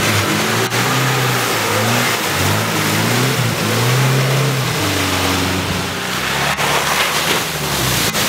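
Off-road 4x4 engine revving hard in deep mud, its pitch rising and falling with the throttle, over a wash of splashing mud and water. The sound breaks off abruptly a few times where the shots change.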